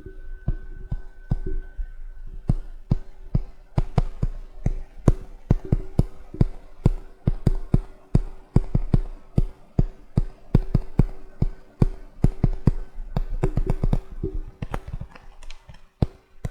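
Magnetic checkers pieces being tapped and clicked, several sharp taps a second in an uneven rhythm.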